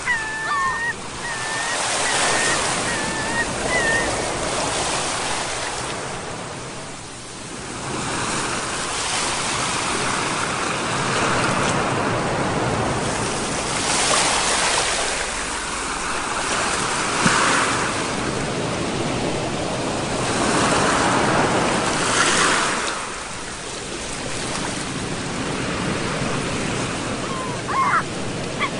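Sea waves surging and breaking, swelling and easing off about every eight seconds.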